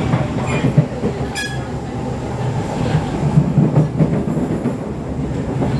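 SMRT C651 metro train running between stations, heard from inside the carriage: a steady low rumble of wheels on rail, with a couple of sharp clicks about a second in.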